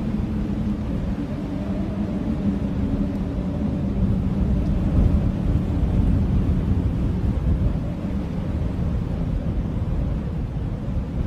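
Blizzard wind blowing strongly: a steady low rumble with a held, low-pitched howl, swelling a little in the middle.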